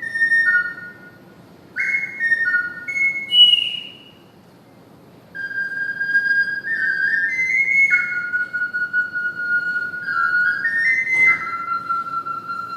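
Triple ocarina playing a slow melody, one clear pure-toned line of stepping notes, with a brief high note sliding down a few seconds in, a short pause, then longer held notes. A short click sounds near the end.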